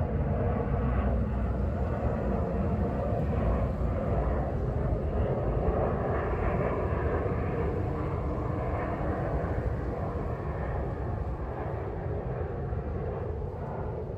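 Steady outdoor rumble and rush, heavy in the low end, easing off slightly near the end.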